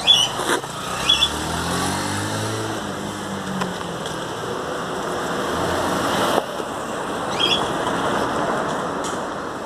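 A motor vehicle passing, its engine hum rising and falling, followed by a swell of road noise, with three short high chirps.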